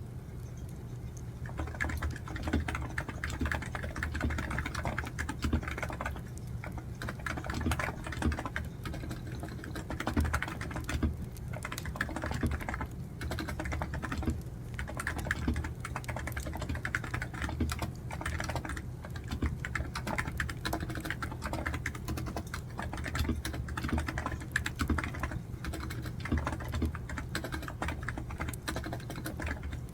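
Fast, continuous typing on a computer keyboard, starting about a second and a half in, with short pauses between runs of keystrokes.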